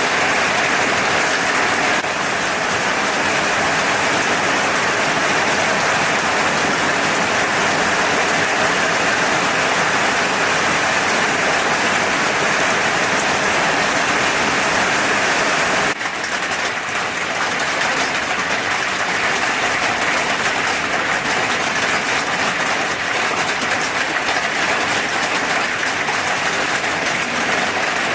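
Food frying in hot oil, a steady dense sizzle and crackle. It dips for a moment about halfway through, then carries on.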